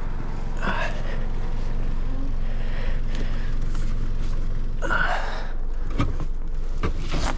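Steady low hum of an idling vehicle engine, with two short breathy gasps close to the microphone, one about a second in and one about five seconds in, and a couple of light knocks near the end.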